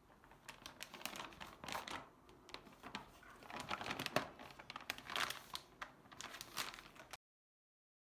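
Packaging crinkling and rustling as it is handled, in irregular crackly bursts. It cuts off suddenly about seven seconds in.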